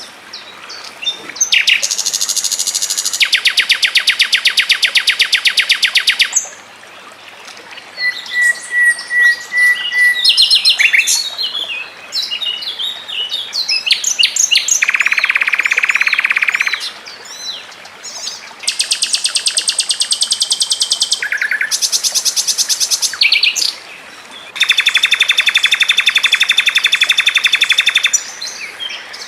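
Songbird song from a mix of icterine warbler, sikatan londo and canary: long, very fast high trills lasting a few seconds each, alternating with short chattering phrases, a brief thin whistle and a lower buzzy trill.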